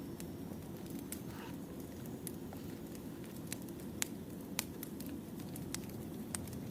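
Burning firewood in a campfire: a steady low rush with scattered sharp crackles and pops, the loudest two about four seconds in.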